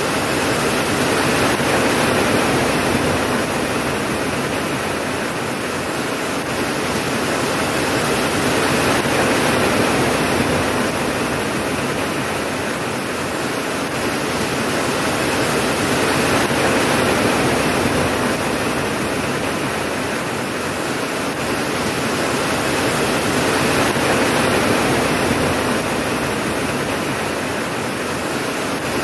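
Steady heavy rain, a dense even hiss that swells and eases slowly every several seconds, with no thunder.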